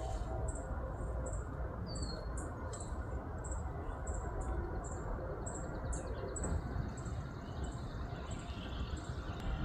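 Backyard birds chirping: one short, high chirp repeated about twice a second, and a quick trill about halfway through, over a steady low rumble.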